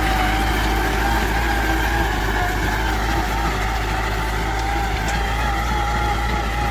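Tractor engine running steadily, with a low rumble and a slightly wavering whine.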